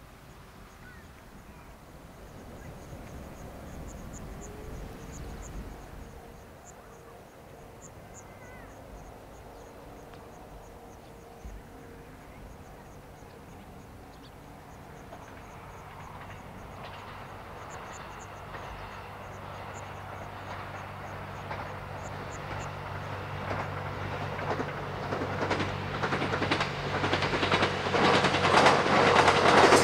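The Twilight Express Mizukaze, a JR West 87 series diesel-hybrid train, approaching and passing. A steady low engine drone and wheel-on-rail noise build from about halfway in and grow loud near the end. Earlier there are faint high chirps.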